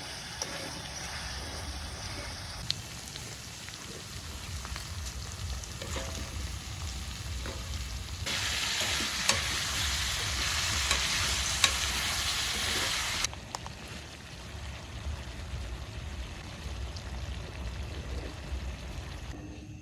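Food sizzling in a pan over a camp stove, with scattered clicks from stirring. About eight seconds in, the sizzle turns louder and brighter for roughly five seconds, then cuts off suddenly.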